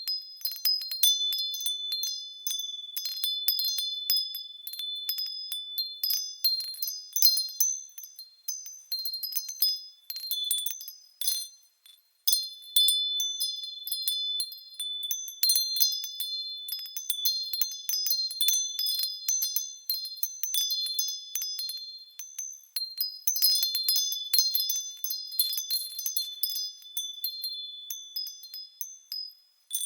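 Japanese furin wind chimes tinkling in the breeze: irregular, overlapping high clear rings, with a brief lull about twelve seconds in.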